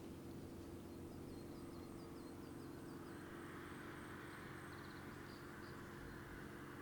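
Small birds singing a run of short, quick high notes over a steady low hum of road traffic. About halfway through, a wash of tyre and road noise swells up, as of a car passing.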